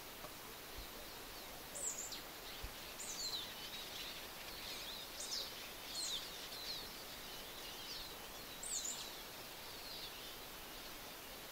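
Small birds calling: short, thin, high-pitched notes that slide downward, one every second or two, over a steady background hiss.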